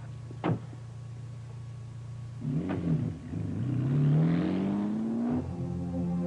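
A car engine revving and pulling away, its pitch rising steadily for about two seconds before it cuts off abruptly. A single sharp knock comes about half a second in.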